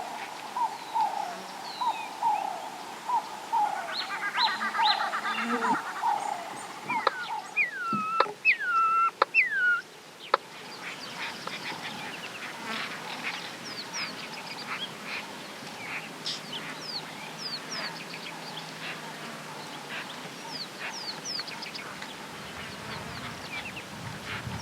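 Wild birds calling: a run of short repeated calls first, then a few loud falling whistles. About ten seconds in, the sound changes abruptly to a busy chorus of many short, high chirps.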